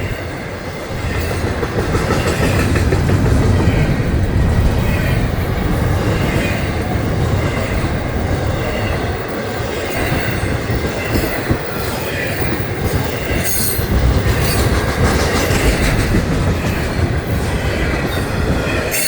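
Long Florida East Coast freight train rolling past close by and picking up speed: a steady heavy rumble of the cars with wheels clicking over the rail joints.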